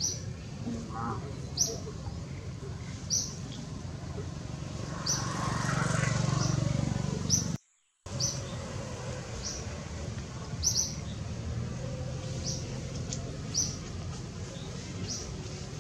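A bird giving a short high chirp about every second and a half, over steady low background noise. A louder swell of noise builds just before the sound cuts out for a moment about halfway through.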